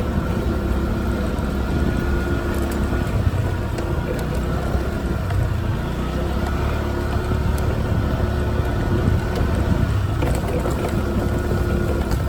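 Small moped engine running while riding, its pitch dipping slightly in the middle and rising again, with wind noise on the microphone.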